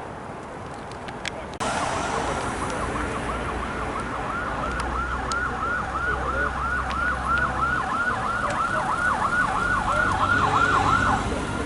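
Emergency vehicle siren in a fast yelp, sweeping up and down about three times a second. It starts suddenly about a second and a half in, grows louder, and cuts off near the end.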